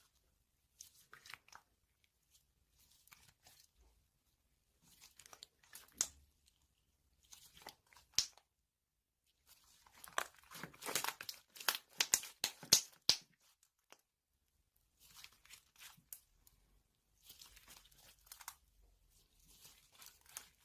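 Intermittent crinkling and tearing handling noises, coming in short bursts with silent gaps, with a denser run of crackles and clicks about ten to thirteen seconds in.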